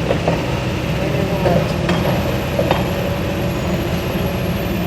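Heavy diesel engine of demolition machinery running steadily, with a couple of short knocks about two and three seconds in.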